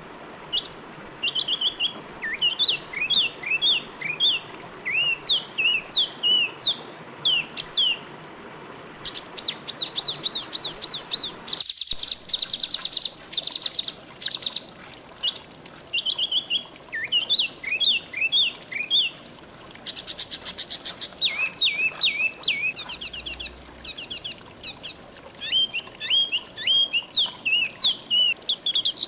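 Songbird singing: runs of quick slurred whistles with bursts of fast rapid notes. The recording cuts abruptly a little before halfway, and from then on a steady high insect hiss, like crickets, runs under the song.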